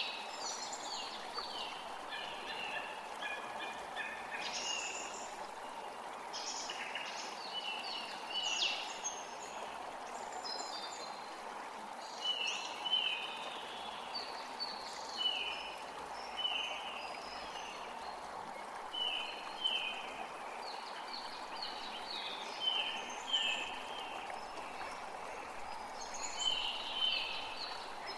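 Steady rush of a forest creek, with birds singing over it in repeated phrases of short, falling chirps.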